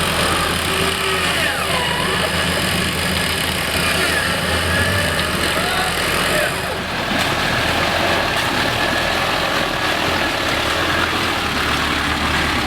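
Off-road vehicle's engine running steadily, a constant low drone with heavy broadband noise over it.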